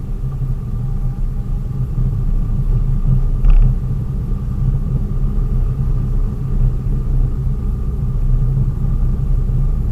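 Low, steady engine and road rumble of a vehicle driving along, with a single short knock about three and a half seconds in.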